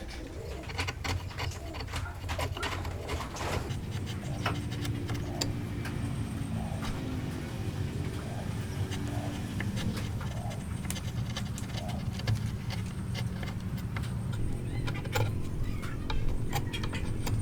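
A bird cooing, with low repeated calls over a steady low hum, and scattered sharp clicks and taps, most of them near the start and again near the end.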